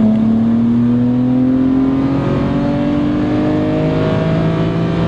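BMW 135i's N54 twin-turbo straight-six at full throttle on 12 PSI boost, its engine note rising steadily through the revs, heard from inside the cabin. It sounds out through an aftermarket turboback exhaust with dual cast downpipes and a stainless catback.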